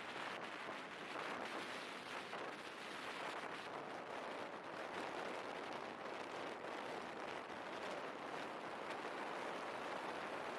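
Steady rushing noise of wind on the microphone, with no single event standing out.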